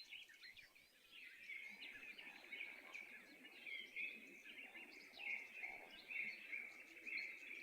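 Faint birdsong: a run of short chirping notes.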